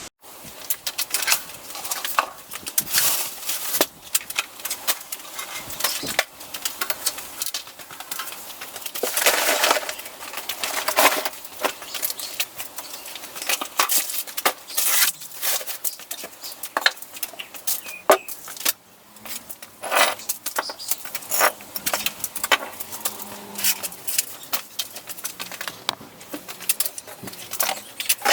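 Workshop handling noise: irregular clinks, knocks and scrapes of metal tools and motorcycle parts being picked up, set down and moved.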